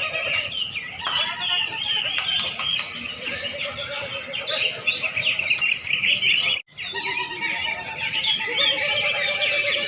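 Many caged songbirds singing at once in a contest, a dense, overlapping chorus of chirps and trills, with a sudden brief break about two-thirds of the way through.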